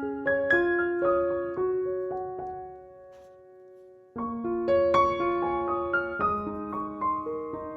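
Soft solo piano background music, notes and chords ringing and decaying. The playing dies away about three seconds in, then a new phrase starts suddenly a little after four seconds.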